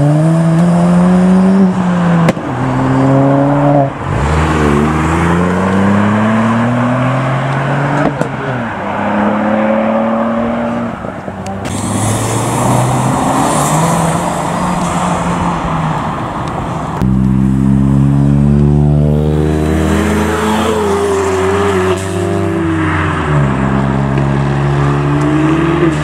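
Several Ford Fiesta ST hatchbacks with turbocharged four-cylinder engines accelerating hard away one after another. The engine note climbs steeply through each gear and drops at every shift.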